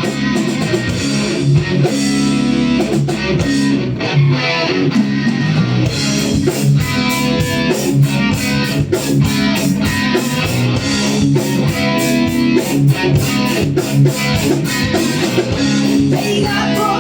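Live band playing, led by guitar with bass; a steady beat of sharp hits comes in about six seconds in.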